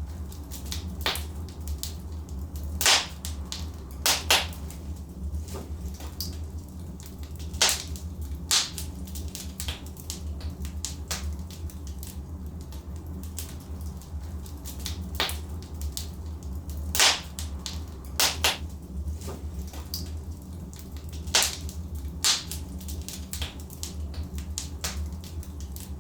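Logs burning in a fireplace, crackling with irregular sharp pops over a steady low rumble. A handful of louder snaps stand out, a few seconds apart.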